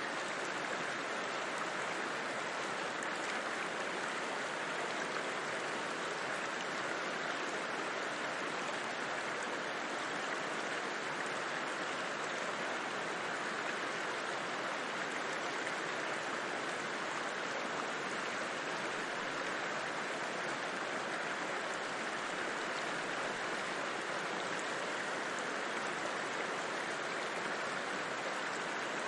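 A river rushing steadily, the even hiss and burble of flowing water.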